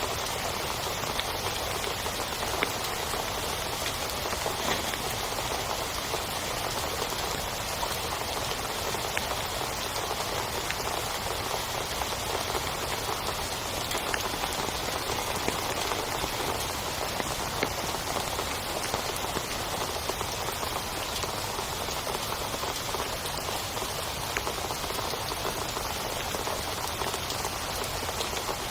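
Heavy rain falling steadily: a dense, even hiss with sharp individual drop hits scattered through it.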